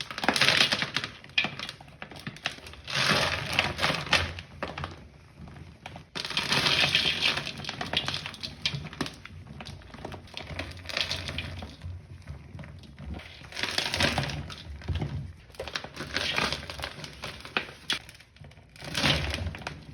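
Hardened Pine Pinalen powder balls being crushed and crumbled, giving crunchy, crackling bursts every few seconds with softer crackles in between.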